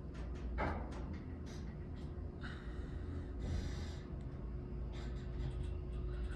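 Dover Classic hydraulic elevator car in motion: a steady low rumble and a constant hum, with scattered light clicks.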